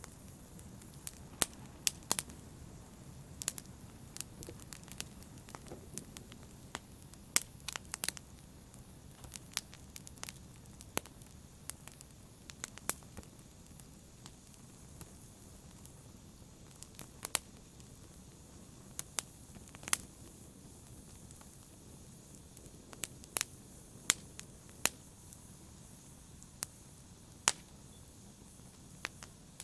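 Fire burning in a fireplace, crackling: sharp pops at irregular intervals, sometimes several in quick succession, over a steady low hiss and rumble of the flames.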